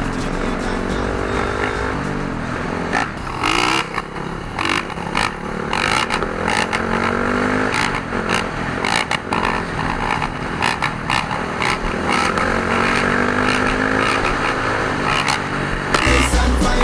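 Dirt bike engines revving, their pitch climbing and falling repeatedly, with many sharp crackles and knocks mixed in.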